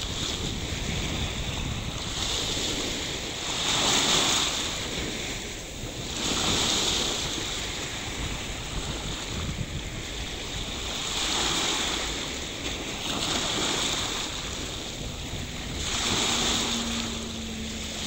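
Sea surf washing in, swelling and fading every two to three seconds, with wind buffeting the microphone. A faint steady hum comes in near the end.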